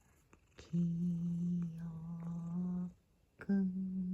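A person humming long, low held notes, each about two seconds, with short breaks between them.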